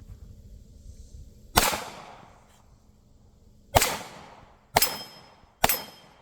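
Four pistol shots from a Glock 19 Gen 5, each followed by a short echoing tail: one about a second and a half in, then three more about a second apart near the end.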